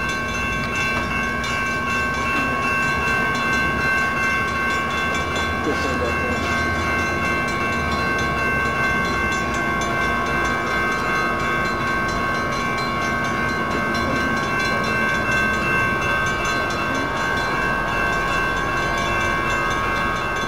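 A passenger train approaching slowly, its low rumble under a steady, unchanging high ringing that holds through the whole approach.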